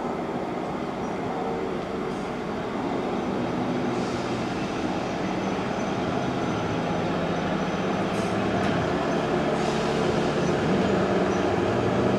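Class 158 diesel multiple unit running into the platform, its engine hum and wheel-on-rail noise growing gradually louder as it approaches.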